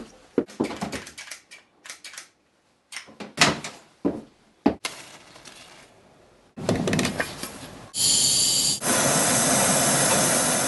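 Scattered knocks and clattering handling sounds, then about eight seconds in a steady rushing hiss begins and holds, fitting a propane torch burning.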